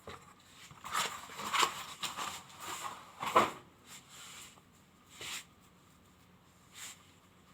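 Irregular handling noises: scattered clicks, knocks and scrapes as a small item and its parts are handled, the loudest knock about three and a half seconds in.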